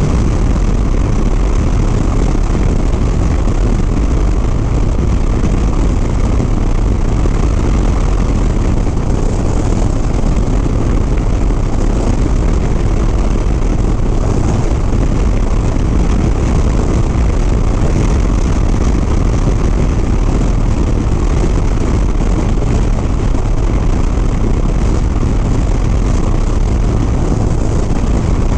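Harley-Davidson Sport Glide's V-twin engine running steadily at road speed under heavy, unbroken wind noise on the rider's microphone.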